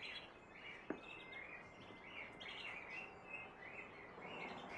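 Small birds chirping repeatedly in the background, short quick notes one after another, with a single sharp click about a second in.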